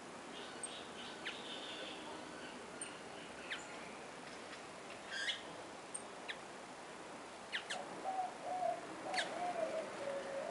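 Small birds chirping: short, sharp, high calls now and then over a steady hiss of garden background. From about eight seconds in, a lower, wavering call repeats several times.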